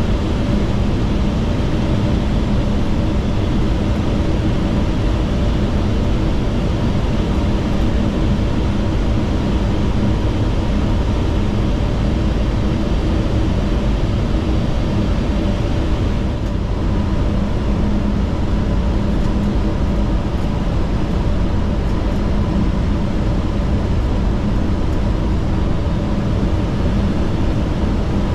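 Steady flight-deck noise of a Boeing 757-200 freighter on approach: a constant rush of airflow and engine noise, with a few faint steady hums under it.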